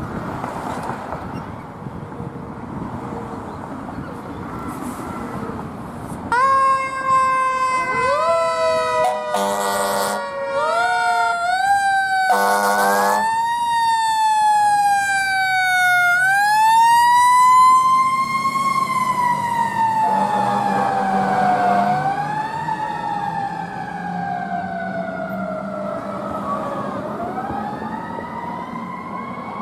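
Fire engine's Whelen siren on its mechanical-style tone. After a few seconds of traffic noise it starts about six seconds in with short rising whoops, broken by two horn blasts. It then settles into a long, slow wail that rises and falls.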